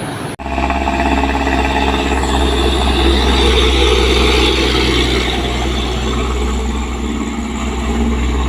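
Loaded truck's diesel engine labouring up a steep climb, a steady low rumble that cuts in abruptly about a third of a second in.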